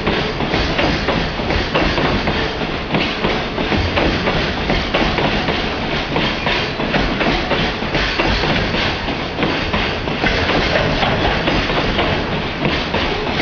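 JR Freight container train's wagons rolling past close by, wheels clattering steadily over the rail joints.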